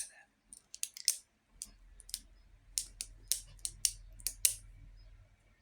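A series of about fifteen light, sharp clicks at an irregular pace, like fingers tapping keys or a mouse button, which stop about a second before the end.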